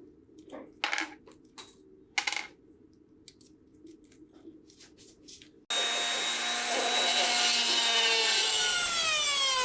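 A few light clicks and taps of small parts being handled. Then a small electric power tool starts abruptly and runs with a steady whine, its pitch falling as it winds down near the end.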